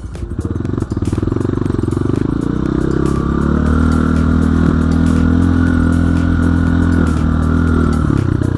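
Enduro dirt bike engine revving up under throttle, held at high revs for several seconds, then easing off near the end, with some rattling clatter.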